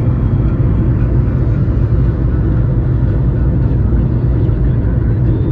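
Car moving at highway speed: a steady, low rumble of tyres on the road and the engine, unchanging throughout.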